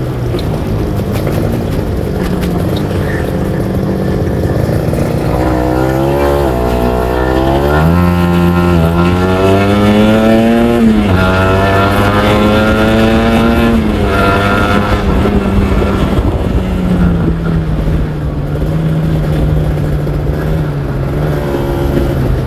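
Kawasaki Ninja R 150 two-stroke single-cylinder engine: a steady run, then revs climbing from about five seconds in, a sudden drop near the middle, a second climb, and a fall back to a steady note for the last few seconds.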